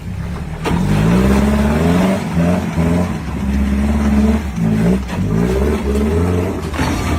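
A motor vehicle's engine revving hard, its pitch rising and falling again and again under repeated throttle. It is loud from about a second in and cuts off near the end.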